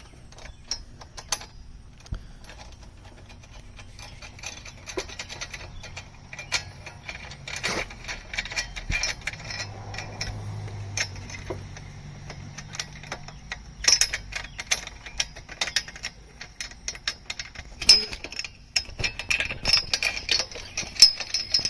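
Clicks, knocks and rattles of aluminum chainsaw mill parts and hardware being fitted together and tightened, with quick runs of clicks in the last few seconds.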